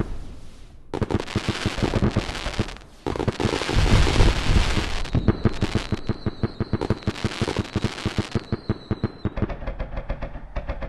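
Fireworks bursting with dense crackling, many sharp pops a second. A thin high whistle is held through the middle stretch, and the bursts cut in abruptly.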